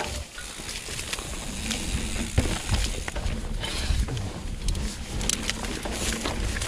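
Mountain bike running down a dirt trail: wind buffets the microphone and the tyres rumble over the ground, while the bike rattles with sharp clacks over bumps, one louder knock about two and a half seconds in.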